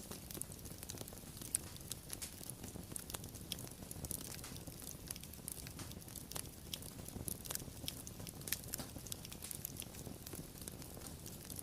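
Wood fire burning steadily, with frequent small sharp crackles and pops over a low rumble of flame.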